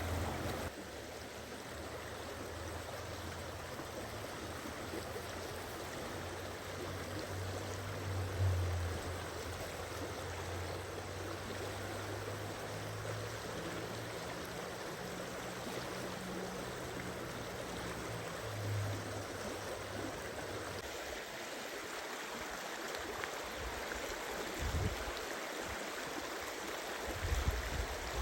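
Water flowing in a steady rush, like a stream, with a low rumble underneath for most of the stretch that fades about two-thirds of the way through.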